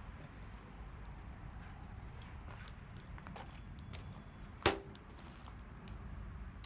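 Scattered light clicks, with one sharp metallic knock that rings briefly about two-thirds of the way in and a smaller knock soon after, typical of cooking gear handled over a campfire.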